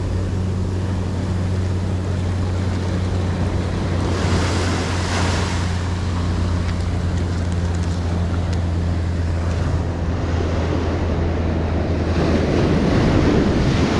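Ocean surf breaking on a beach, a steady wash that swells twice: once about four seconds in and more loudly near the end. Wind rumbles on the microphone.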